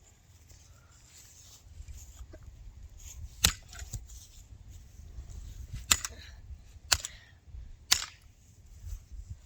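Hammer blows on a metal toy tractor: four sharp metallic strikes, unevenly spaced, the first about three and a half seconds in, with the toy bending under them.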